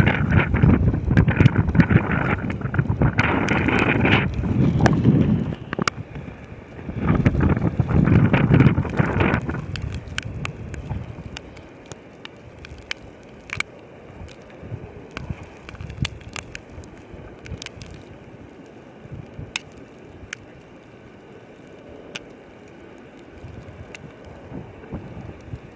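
Snowstorm wind gusting against the microphone, rushing loudly for about ten seconds with a brief lull in between, then dying down to a faint hiss with scattered small ticks.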